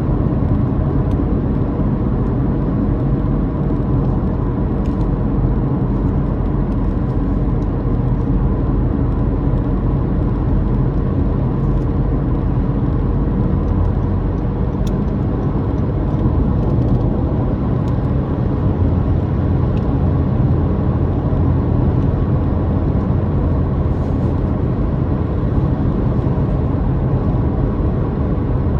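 Car on the move: steady droning of the motor with road and tyre noise.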